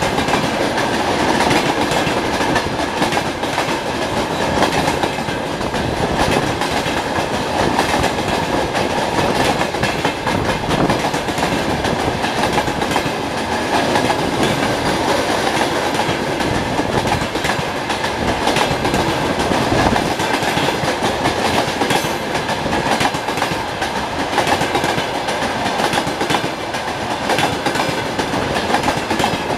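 Freight train wagons rolling steadily past, their wheels clattering over the rail joints in a continuous clickety-clack.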